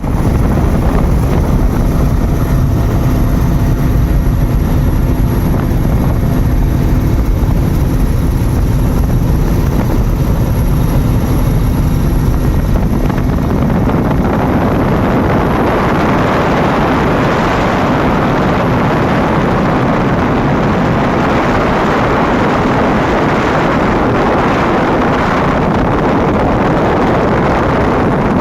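Firefighting aircraft flying over the fire, a steady engine drone with a low hum. About halfway through, a louder rushing noise takes over.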